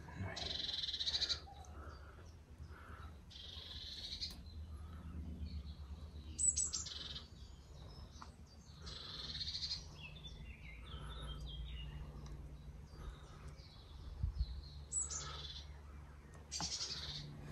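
Songbirds singing: short, high trilled phrases every few seconds, over a low steady rumble.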